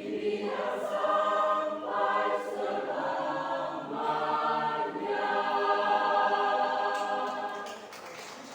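Church choir singing a Christmas choral piece in long held chords, phrase after phrase; the singing dies away near the end.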